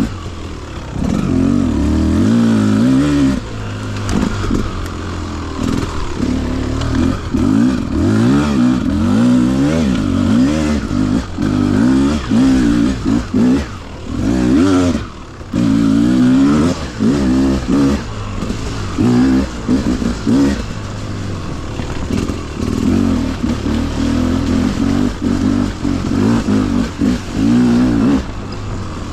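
Beta RR300 two-stroke single-cylinder enduro engine, freshly rebuilt and being run in, ridden with the revs rising and falling again and again as the throttle is opened and shut.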